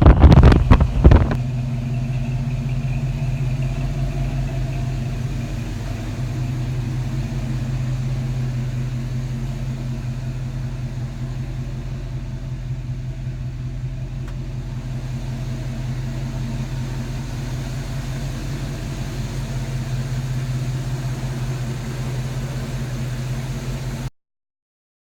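A 1972 Chevrolet K10's 350 V8 with dual exhaust runs at a steady idle. A loud rush of wind noise on the microphone comes first and stops about a second in, and the engine sound cuts off suddenly about a second before the end.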